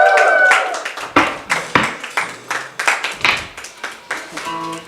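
A small audience clapping and calling out at the end of a live band's song, the last held notes dying away in the first half second.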